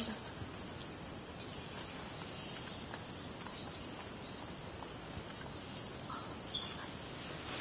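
Steady high-pitched drone of rainforest insects, with a few faint short bird calls scattered through it.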